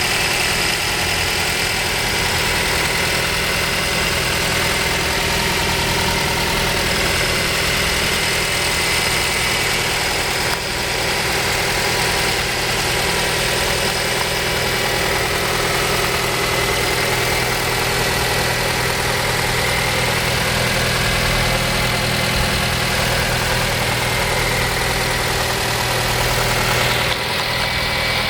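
2012 Nissan Sentra's 2.0-litre four-cylinder engine idling steadily.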